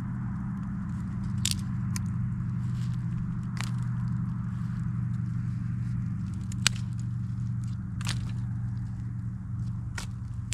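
Wood campfire burning: a steady low rumble from the flames with sharp crackling pops every second or two, about six in all, the sharpest about two-thirds of the way in.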